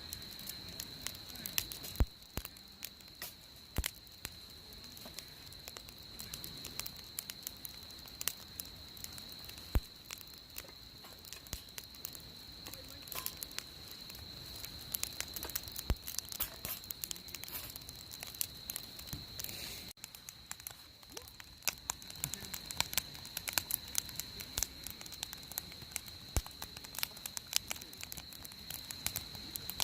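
Wood fire crackling, with irregular sharp pops from the burning wood.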